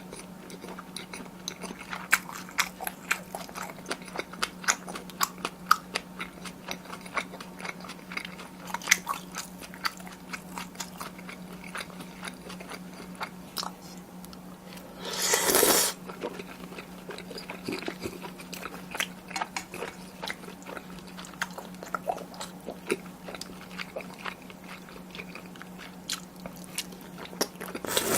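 Close-miked chewing of tteokbokki: a steady run of small wet mouth clicks and smacks, with one louder, noisy sound lasting under a second about halfway through. A steady low hum sits underneath.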